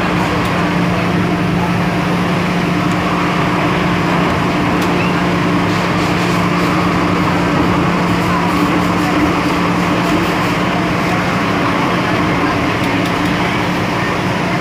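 MTR M-Train electric multiple unit running at a steady speed: a constant rumble from the wheels and track with a steady low hum from the traction equipment.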